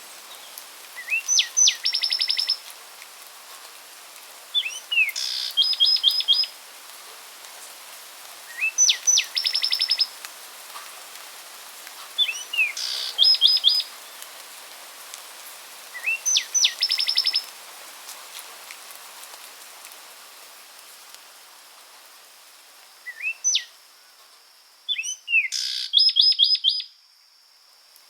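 A songbird repeating one short song about every four seconds: a couple of rising slurred notes, then a quick run of about six clipped notes, with a longer pause in the middle of the stretch. A steady hiss of background noise lies underneath.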